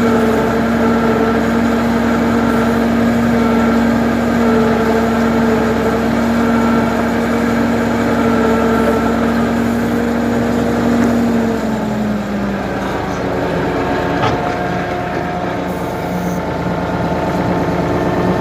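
Ford 550 backhoe's engine running at a steady speed, then throttled down to a lower idle about twelve seconds in. A single short click comes soon after.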